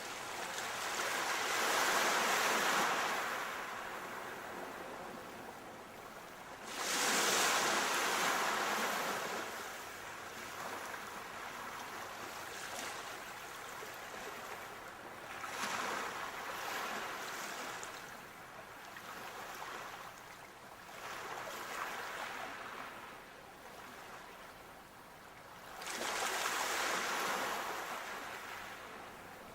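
Sea waves breaking on the shore: surf washing in slow surges, the biggest about 2, 7 and 27 seconds in, with a constant wash of water between.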